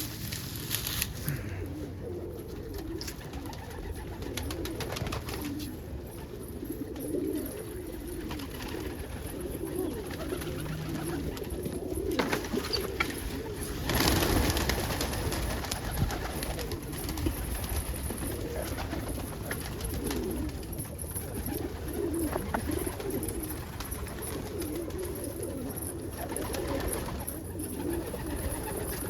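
Domestic pigeons cooing continuously in a loft, with scattered light clicks and a short, louder burst of noise about halfway through.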